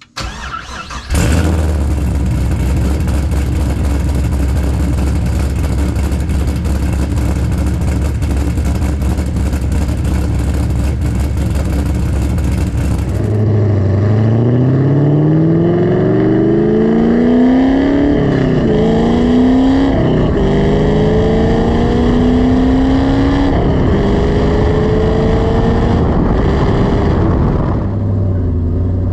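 Exhaust of a cammed Texas Speed 408 stroker V8 in a Pontiac GTO, through a Carven R-series muffler and a Dr. Gas boom tube tip. The engine fires up about a second in and idles with a steady, lumpy note. About halfway through it accelerates through the gears, its pitch rising slowly and dropping at each shift, then settles back to a steady tone near the end.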